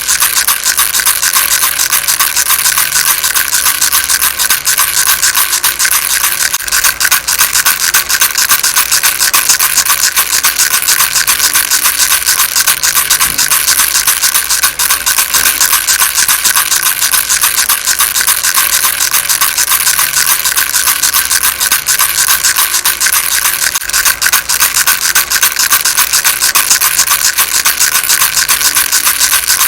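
Baby rattle shaken continuously: a dense, steady rapid rattling with no pauses.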